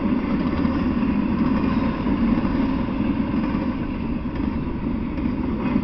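Intermodal freight train of container well cars rolling past, a steady low noise of steel wheels running on the rails.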